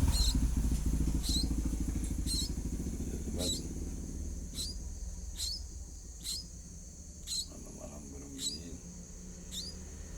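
Short high chirps, each hooking down in pitch, repeated about once a second by the nestling 'burung magrib' chicks. A low pulsing rumble, like a running engine, is loudest at the start and fades over the first few seconds, and a steady high hiss runs underneath.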